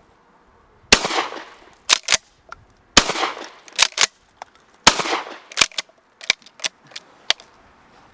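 Pump-action shotgun fired three times, about two seconds apart, each shot ringing out after the blast. About a second after each shot comes a quick double clack as the pump is worked back and forth to chamber the next shell.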